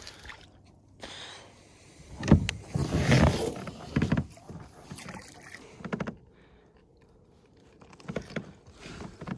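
Scattered knocks and thumps on a kayak, the sharpest about two seconds in, with a rustling burst just after, as a caught pike is handled aboard.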